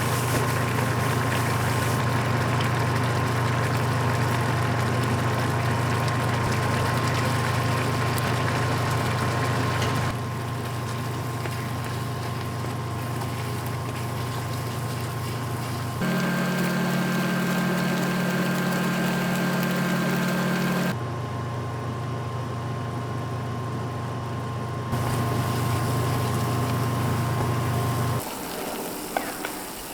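Steady low motor hum from a kitchen appliance, with a faint high tone over it. It comes in several spliced stretches that change abruptly in level and pitch, and it drops away near the end.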